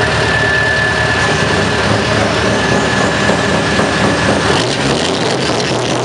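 Scania R620's V8 diesel truck engine running at idle, with a steady high tone over the low rumble; about four and a half seconds in, the tone stops and the low rumble thins out.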